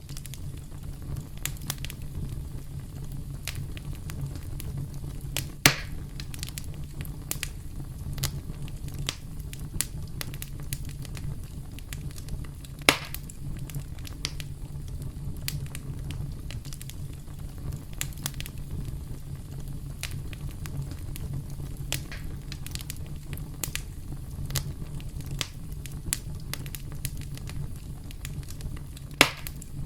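Campfire crackling: a steady low rumble of burning wood with frequent small crackles and three louder sharp pops, about 6 seconds in, about 13 seconds in and near the end.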